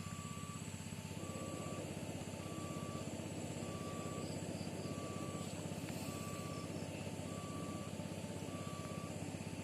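Railway level-crossing warning alarm sounding a steady alternating two-tone beep, high then low, about half a second each. Under it runs a steady low engine rumble, with a rougher rushing noise joining about a second in.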